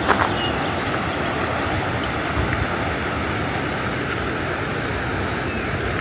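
Steady roar of rushing water, a river or waterfall close by, with a sharp click right at the start.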